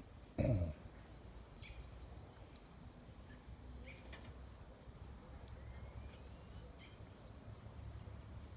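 A bird repeating a short, sharp high chip note six times, one every one to two seconds. A brief low falling sound comes about half a second in.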